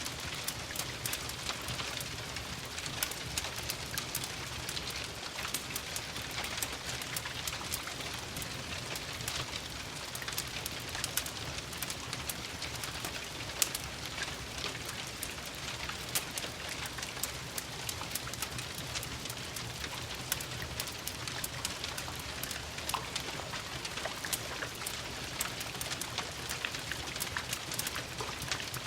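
Steady rain pattering, with a crackling fireplace mixed in: a dense stream of small ticks and the odd sharper pop over an even hiss.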